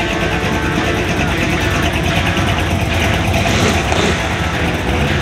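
Car engine running as a Chevrolet Vega drives slowly past, with guitar music playing along.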